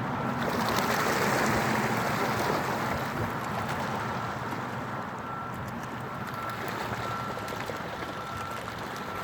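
Steady rushing of water, an even hiss with no clear strokes, slightly louder in the first couple of seconds.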